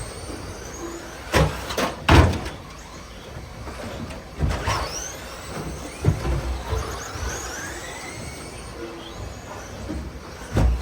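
RC stadium trucks racing on a dirt track: high motor whines sweep up and down in pitch as the trucks accelerate and brake, broken by several loud thumps.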